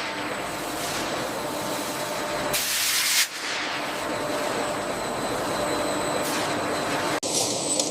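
Soap-making machinery running, a steady mechanical hum with hiss, and a louder burst of hissing about two and a half seconds in. The sound changes abruptly near the end to a rattling noise.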